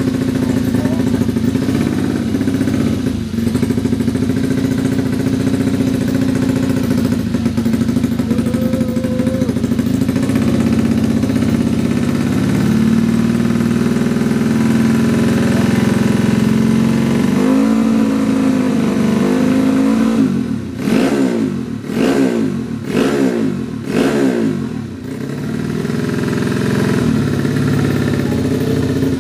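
Yamaha Jupiter 130cc single-cylinder four-stroke underbone motorcycle engine, tuned for grasstrack, running steadily, then given about five quick throttle blips about twenty seconds in before settling back to a steady idle.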